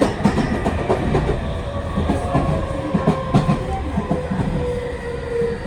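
Tokyu 5000 series electric train running, heard from inside a motor car: wheels click and clatter over rail joints over a steady rumble. A tone from the TKM-98 traction motors and Hitachi IGBT-VVVF inverter sinks slightly in pitch in the second half.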